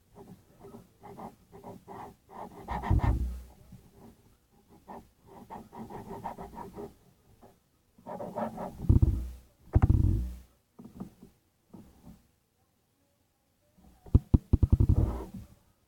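Slime being squeezed and stretched by hand: bursts of wet crackling and popping, with louder squelches about three seconds in, around nine to ten seconds, and near the end.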